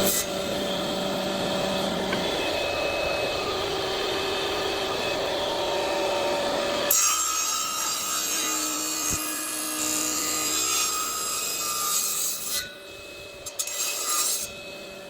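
Power tool working shisham wood, running steadily with a faint motor tone. Its sound changes about seven seconds in and drops away near the end, with a few short bursts.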